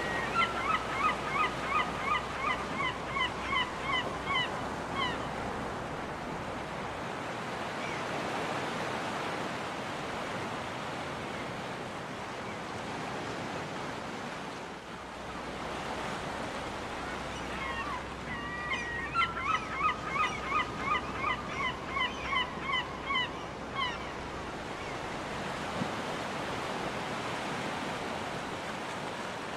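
Surf breaking and washing steadily on a beach, with a seagull calling twice in a long series of rapid repeated calls, about a dozen at roughly three a second each time. The first series is at the start and the second comes about two-thirds of the way through.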